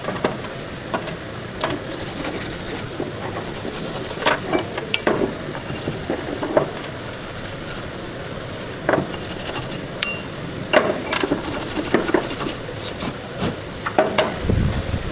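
Hand tools working on metal: repeated short rasping, scraping strokes mixed with sharp clinks and knocks, and a heavier thump near the end.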